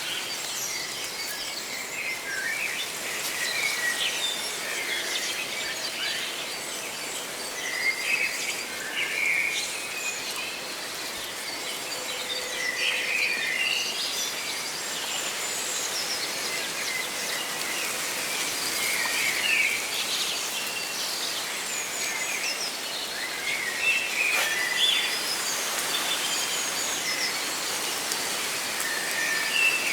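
Many birds chirping and trilling in short, scattered calls over a steady rustle of leaves.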